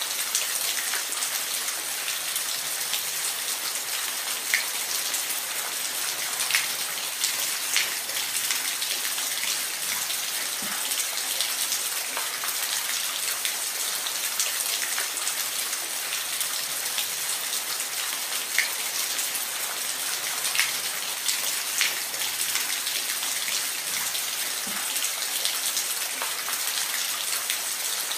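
Steady, even hiss of falling water, strongest in the high range, with scattered sharp splash ticks every second or two.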